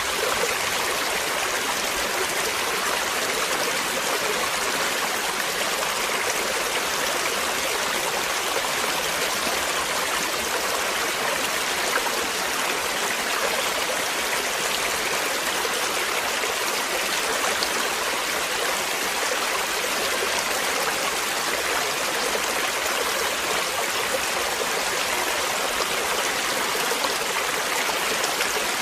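Running water flowing steadily, a continuous even rush with no break or change.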